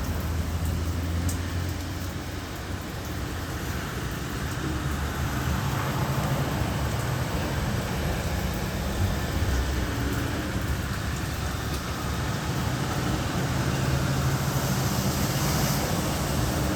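Road traffic in the rain: vehicle engines humming and a constant hiss of tyres and rain on wet pavement. The low hum swells and fades as vehicles pass.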